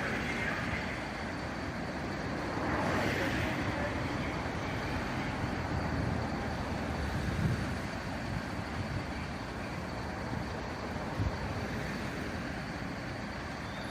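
Steady vehicle engine and road traffic noise, with a brief rush of noise about three seconds in.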